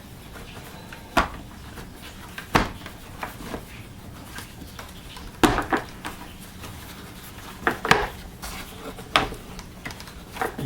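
Scattered knocks and clicks, about half a dozen, with some rubbing in between: a replacement Domel vacuum motor being worked and pressed into the plastic motor housing of a Vax Power 7 Pet vacuum cleaner.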